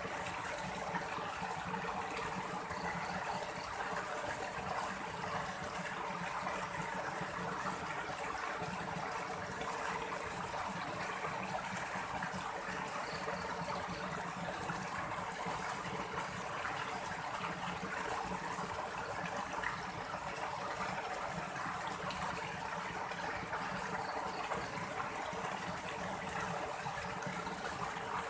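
Steady, unbroken rush of flowing water, like a stream running.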